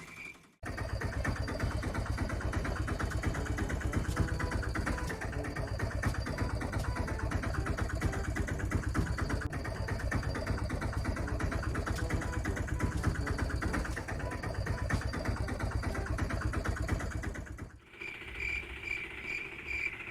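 Vehicle engine running steadily with a fast, even chugging. It starts abruptly about half a second in and cuts off abruptly shortly before the end.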